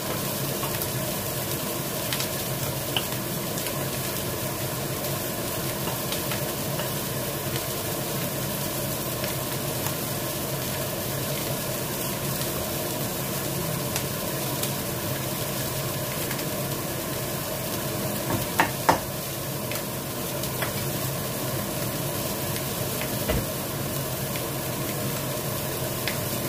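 Pancit noodles sizzling in a stainless steel Saladmaster pan while a wooden spoon stirs them, a steady frying hiss throughout. Two sharp knocks come close together about two-thirds of the way through.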